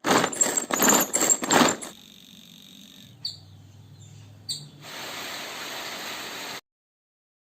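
Birds' wings flapping in a series of loud bursts over the first two seconds, then two short falling chirps a second or so apart, then a steady hiss that cuts off suddenly.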